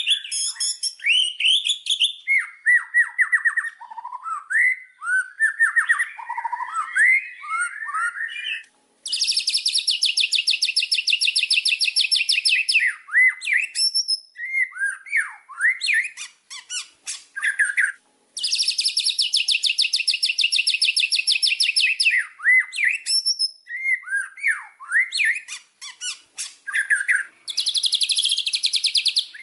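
White-rumped shama (murai batu) in full song: quick varied whistled phrases, broken three times by a long harsh rattling trill of about three seconds each.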